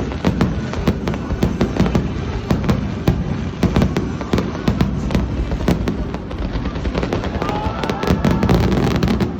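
Fireworks display going off in a dense barrage: many overlapping bangs and crackles each second over a continuous low rumble.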